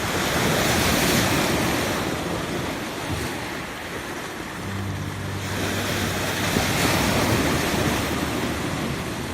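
Rough sea surf: waves breaking and washing in with a steady roar that swells twice, near the start and again about seven seconds in, with wind buffeting the microphone.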